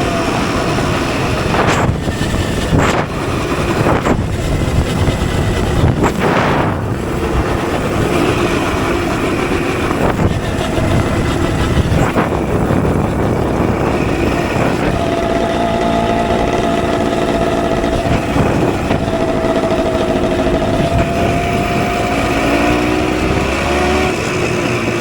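Two-stroke dirt bike engine running hard off-road, its pitch rising and falling with the throttle. Several sharp knocks come in the first half.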